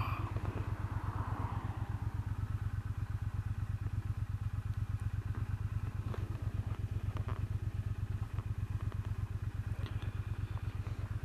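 Motorcycle engine idling steadily at a standstill, an even low pulsing from its firing strokes.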